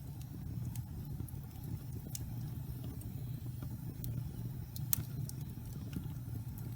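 Log fire burning with a steady low rumble and scattered sharp crackles, one louder pop about five seconds in.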